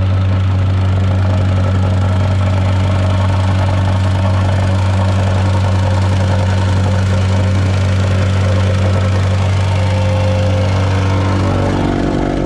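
Engine of a piece of earthmoving equipment running steadily at an even speed, its note shifting slightly near the end.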